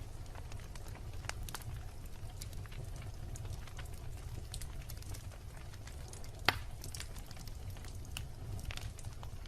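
Wood bonfire crackling, with irregular small pops and one louder pop about six and a half seconds in, over a steady low rumble.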